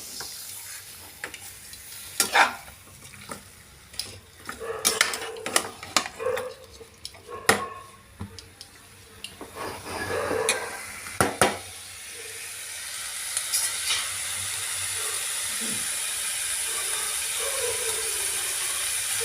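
Chicken with ginger-garlic paste frying in a metal kadai. A spoon scrapes and knocks against the pan in irregular strokes for about the first twelve seconds, then a steady sizzle carries on by itself.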